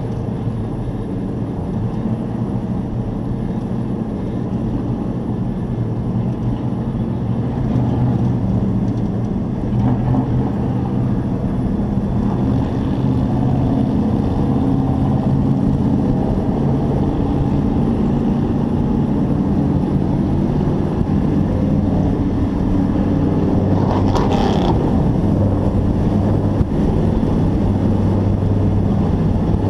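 Race truck engine running hard, heard from an onboard camera. Its sound steps up in loudness about a quarter of the way in, and there is a short noisy burst near the end.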